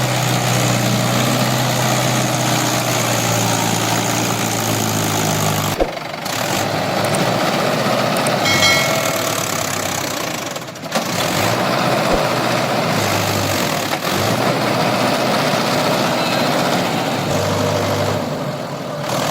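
Mahindra Yuvo tractor's diesel engine running steadily, with brief dropouts about six and eleven seconds in.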